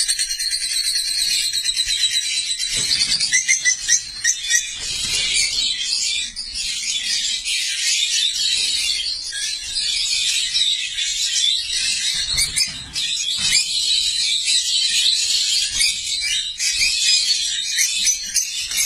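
A flock of lovebirds chattering continuously in high-pitched overlapping chirps and squeaks, with a few low thumps in between.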